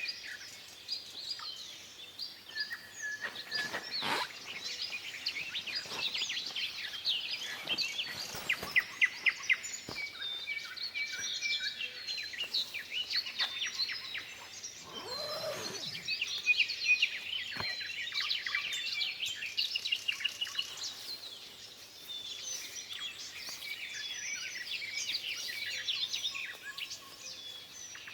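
Several songbirds singing and calling at once, a dense chorus of overlapping chirps, trills and whistles.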